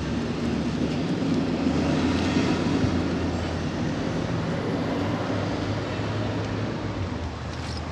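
A train passing: a steady low engine drone with rumbling, swelling about two seconds in and slowly easing off.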